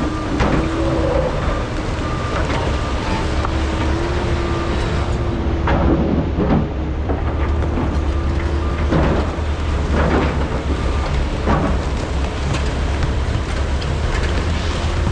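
Large hydraulic excavators' diesel engines running steadily under load, with a constant hydraulic whine that steps up slightly about four seconds in. Short clatters come every second or two as buckets dig and dump rock.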